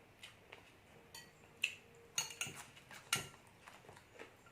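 Tableware clinking as food is served and handled: a few scattered sharp clinks of utensils against plates, a small cluster from about a second and a half to three seconds in.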